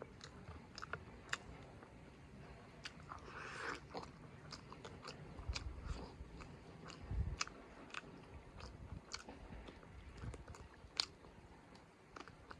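A person chewing and biting chicken curry and rice close to the microphone, with frequent sharp wet mouth clicks and a few crunches. There is a brief swishing noise about three and a half seconds in, and a couple of low thuds in the middle.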